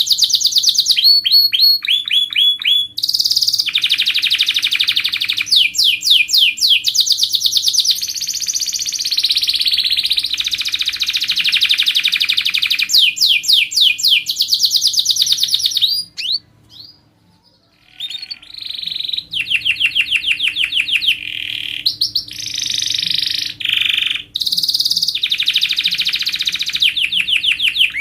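Domestic canary singing: a loud song of fast, rapidly repeated trill phrases that change from one phrase to the next, broken by a short pause a little past halfway.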